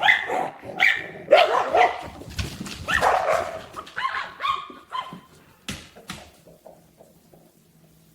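A dog barking repeatedly, a quick run of short barks that thins out and falls quiet over the last few seconds.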